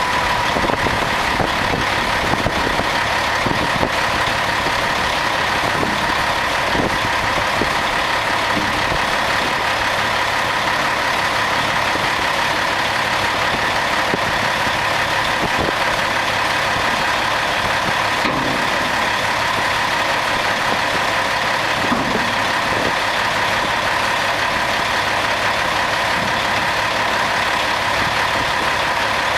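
1996 Peterbilt 379 dump truck's diesel engine idling steadily, with a steady whine running through it.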